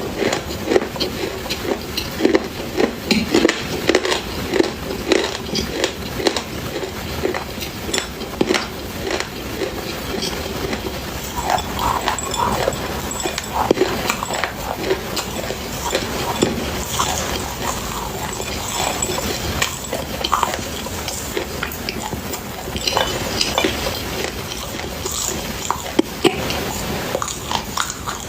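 Chewing and crunching of something hard and brittle: a dense, irregular run of sharp crunches that never stops.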